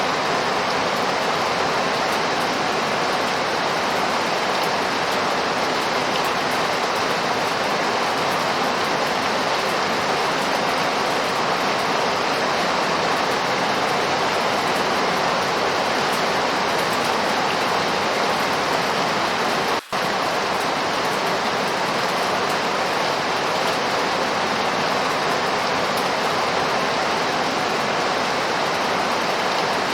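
Steady, heavy rainfall, with a split-second dropout about two-thirds of the way through.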